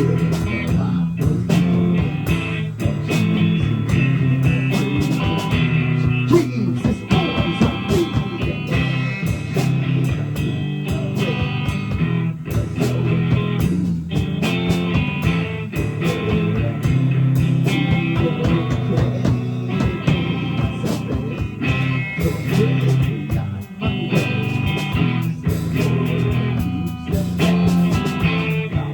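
Rock band playing live: guitar-led music with a drum kit keeping a steady beat.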